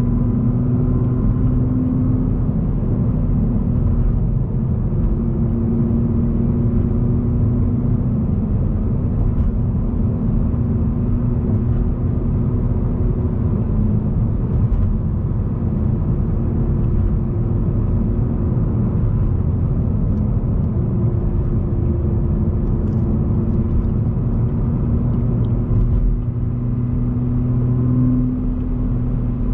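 Nissan GT-R R35's twin-turbo V6 and tyre noise at a steady expressway cruise: an even low drone with a faint engine hum that swells and eases a little, no gear changes or revving.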